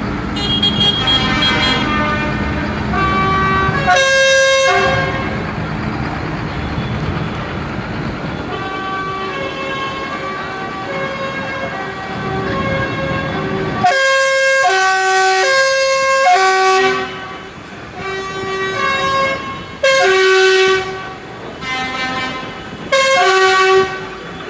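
Vehicle horns on passing tractors in a tractor run, sounding a string of held notes over engine rumble, with several loud long blasts in the second half.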